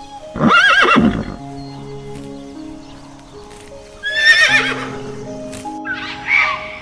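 A horse neighing: two loud, shaky whinnies, the second falling in pitch, and a shorter call near the end, over background music with sustained notes.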